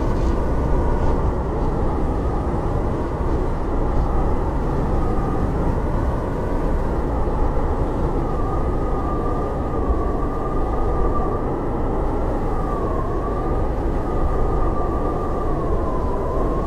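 Howling blizzard wind: a steady low rush with a thin whistling tone that slowly wavers up and down.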